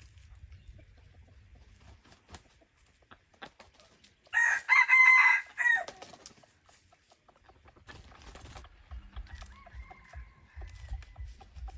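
A crossbred jungle fowl rooster crows once, loudly, about four seconds in, a crow of about a second and a half. A fainter, drawn-out call follows near the end.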